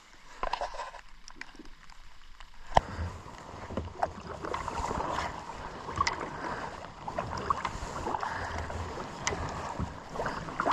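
Kayak paddling in calm water: the splash and drip of the paddle blades, with a few sharp clicks. Quieter for the first few seconds.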